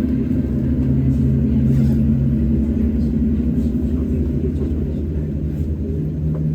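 Class 20 diesel locomotive's engine running with a steady low note, which shifts in pitch near the end.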